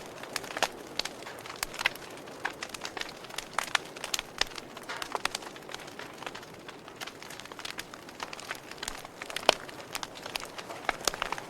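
Campfire crackling: burning wood giving off irregular sharp pops and snaps over a soft steady hiss, with one louder pop about nine and a half seconds in.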